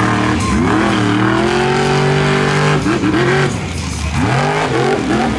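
Monster truck engine revving hard. It climbs and holds high for about two seconds, drops near the three-second mark, then gives several quick blips of the throttle.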